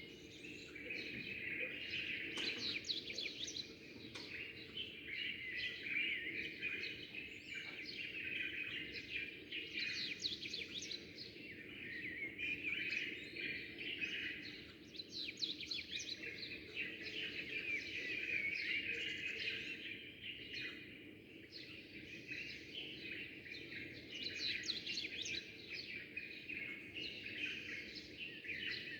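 Many small birds chirping and twittering together, a dense chorus of quick overlapping calls with no pause, over a steady low hum.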